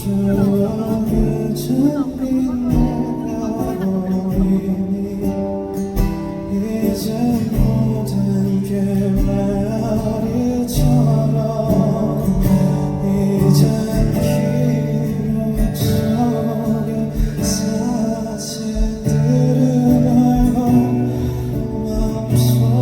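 A live band plays with singing: guitar over sustained bass notes, with regular drum hits.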